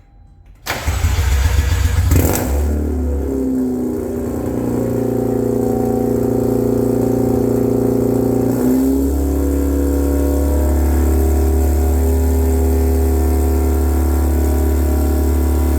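Mazda RX-8's Renesis rotary engine, running through headers and a straight-piped muffler delete, starting up about a second in with a brief flare, then idling loudly and steadily; the idle note changes once about nine seconds in.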